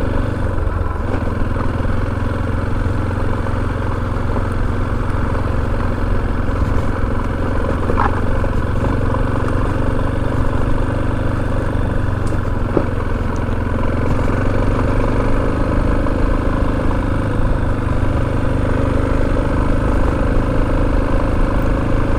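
Motorcycle engine running at low, steady revs while riding, with a couple of light clicks partway through.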